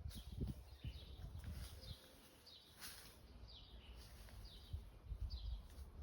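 A small bird repeating a short, high, falling call about once a second, over low rumbling noise that is strongest at the start, with one brief click about three seconds in.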